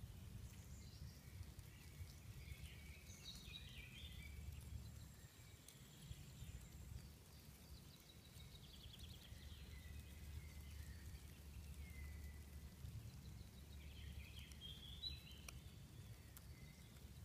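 Faint forest birdsong: scattered short chirps, trills and whistles from more than one bird, over a steady low rumble.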